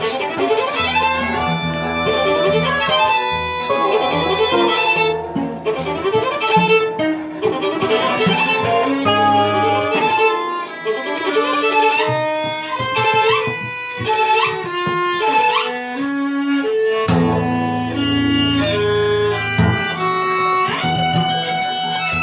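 Violin and acoustic guitar improvising together, the violin playing bowed melodic lines with held notes and slides over plucked guitar notes and chords.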